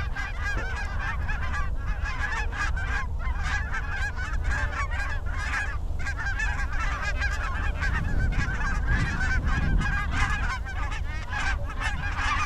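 A flock of geese honking continuously, many calls overlapping, over a steady low wind rumble.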